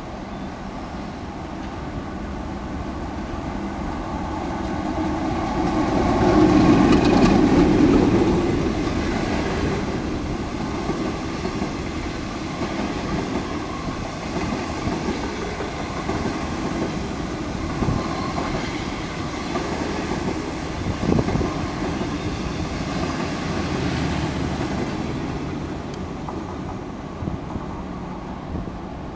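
DF11 diesel-electric locomotive passing while speeding up, its engine loudest about six to eight seconds in. A long rake of 25Z passenger coaches follows, rolling by with a few sharp wheel knocks, and the sound fades away near the end.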